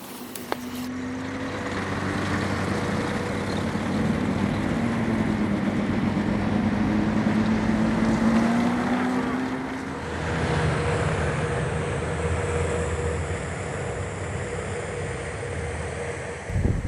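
Steady engine drone of a large aircraft, with a low tone that bends slowly in pitch. The sound changes abruptly about ten seconds in and again near the end, with a deeper rumble in the later part.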